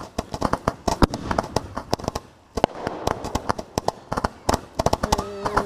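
Fireworks going off in rapid succession: a dense run of sharp bangs and crackles, with a short lull about two and a half seconds in. A brief held tone sounds near the end.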